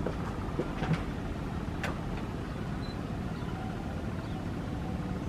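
Steady low rumbling background noise, with a faint click nearly two seconds in.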